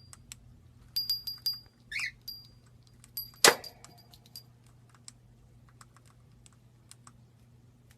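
Light metallic clinks and taps, some with a brief high ringing, in a few quick clusters, a short chirp, and one sharp knock about three and a half seconds in, then scattered faint ticks.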